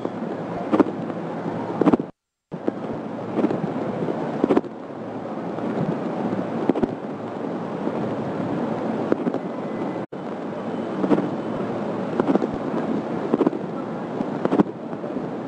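Typhoon wind and heavy rain: a steady rush of noise with irregular sharp knocks from gusts buffeting the microphone, broken by a brief cut to silence about two seconds in.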